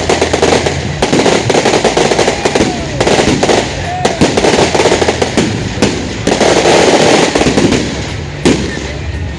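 Firecrackers going off in a fast, crackling string of bangs that runs in long stretches, easing near the end with one last sharp bang.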